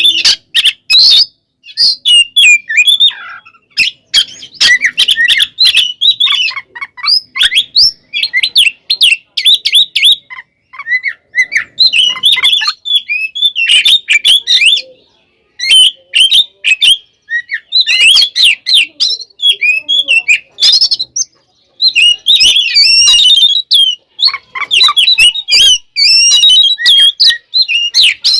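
Oriental magpie-robin (kacer) singing loudly in rapid, varied phrases of chirps and whistles with short pauses between them: the agitated fighting song that bird keepers play to provoke other magpie-robins.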